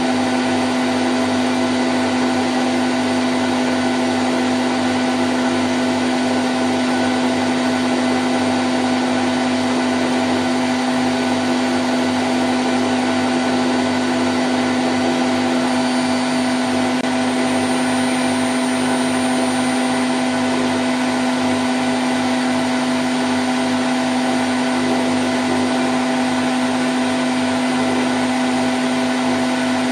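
Candy Grand O' F106 washing machine in its spin cycle at 1000 rpm: a steady motor hum and whine over the rush of the spinning drum, unchanging throughout.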